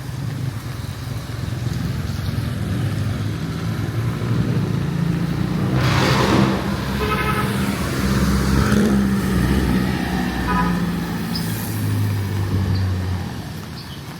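Motor-vehicle engine running close by on a city street, its low hum swelling through the middle with a loud rush about six seconds in as it passes. A few short high beeps sound between about seven and eleven seconds.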